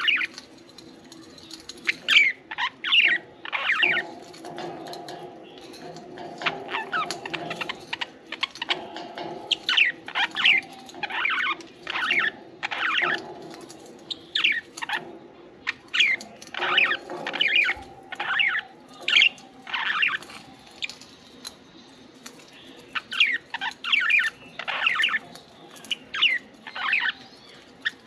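A small flock of pet budgerigars (parakeets) chirping and chattering: a steady run of short, high calls, several a second, over a softer continuous murmur.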